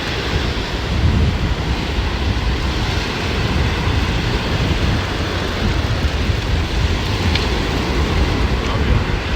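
Wind buffeting the microphone, a steady low rumble over the wash of surf.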